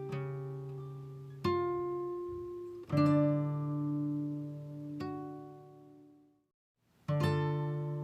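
Background music on acoustic guitar: plucked notes and chords that ring and fade. The music dies away to a short silence about six and a half seconds in, then starts again.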